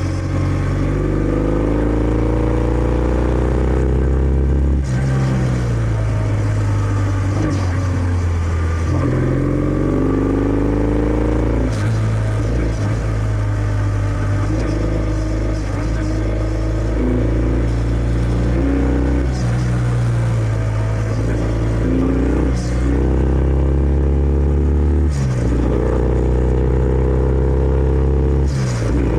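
Kawasaki W650's air-cooled parallel-twin engine through its stock exhaust, riding and accelerating through the gears. The engine note climbs and drops back at each upshift, several times, with a steadier cruising stretch in the middle.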